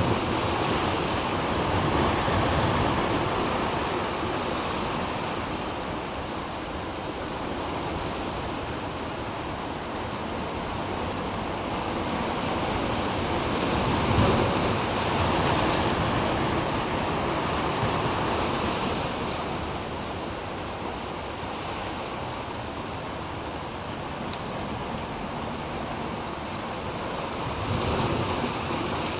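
Ocean surf surging and washing between rocks, swelling loudest about two seconds in, around the middle and again near the end, with wind buffeting the microphone.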